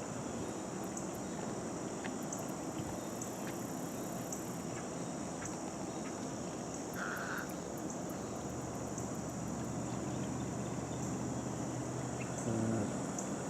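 Steady chorus of small frogs and insects, a continuous high trill with faint regular pulses. A short call sounds about seven seconds in, and a low steady hum comes in past the middle and stops with a small bump near the end.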